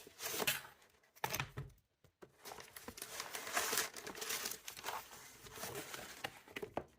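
Packaging being unwrapped and handled, crinkling and rustling in irregular bursts with a brief pause about two seconds in.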